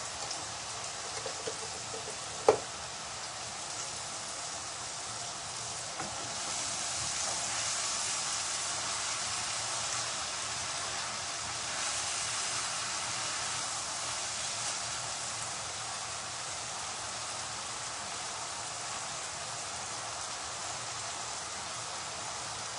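A curry's spice mixture sizzling in a pan as it cooks down, a steady hiss that grows a little louder about six seconds in and eases after several seconds. A single sharp click, the loudest sound, comes about two seconds in.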